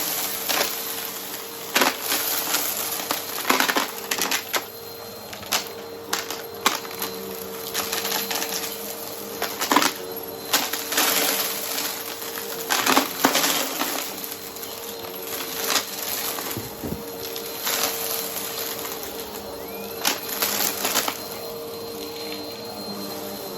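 Vacuum cleaner running with a steady motor hum while its brushroll sucks up crunchy debris, giving frequent irregular sharp clicks and crackles.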